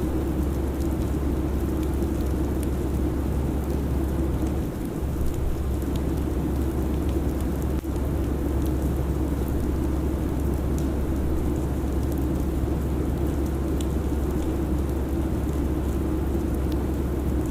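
Steady airliner cabin noise in flight: a constant low drone under an even rushing hiss, with no change in level.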